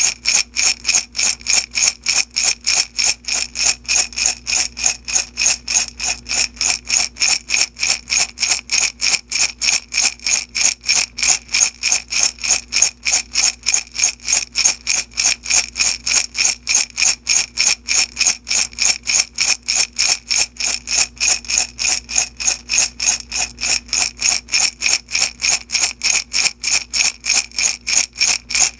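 Small beads shaken back and forth in a glass jar, a steady rhythmic rattle at about three shakes a second, with the jar's glassy ring in each stroke.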